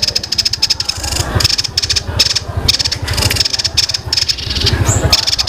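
White-breasted babbler (tepus dada putih) singing a rapid, high-pitched machine-gun trill of sharp repeated notes, in runs broken by brief pauses about once a second: the 'tembakan' song used as a masteran recording to teach songbirds.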